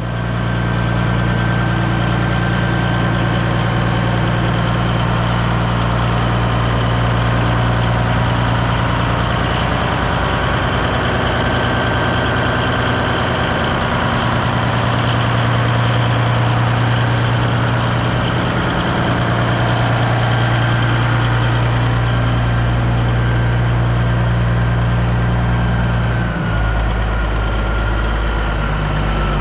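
Heavy diesel truck engine idling steadily, a deep even hum with a short change in its note near the end.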